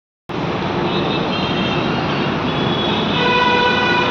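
Steady road traffic noise, with a vehicle horn sounding from about three seconds in.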